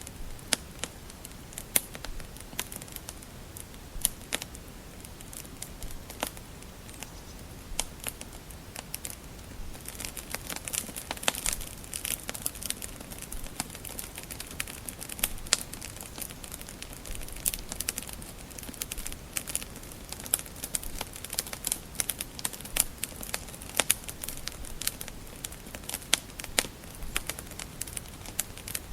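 Wood fire crackling: irregular sharp pops and snaps over a faint steady hiss, coming thicker about a third of the way in.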